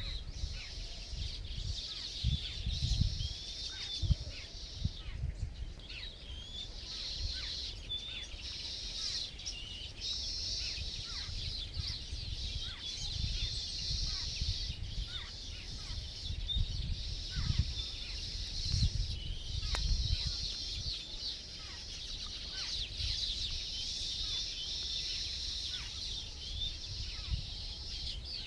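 Many small birds chirping together in a dense, continuous chorus of high, quick notes, with irregular low rumbles and bumps underneath.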